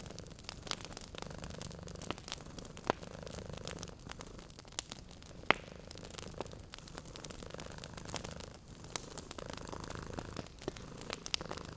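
Cat purring low and steady in long stretches, under a wood fire crackling with frequent sharp pops.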